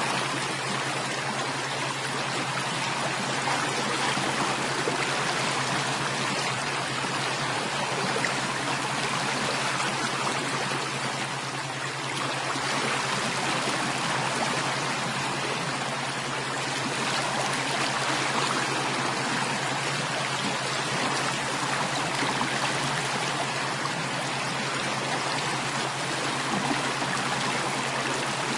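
Running water flowing steadily, an even, unbroken stream sound.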